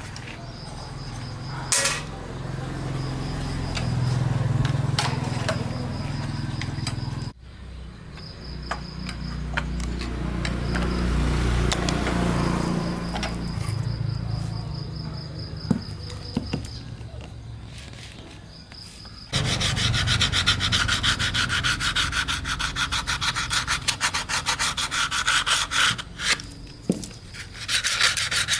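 Hand-scrubbing and scraping on metal engine parts, typical of cleaning off carbon deposits, in repeated rubbing strokes. In the last third the strokes become a fast, even scrubbing.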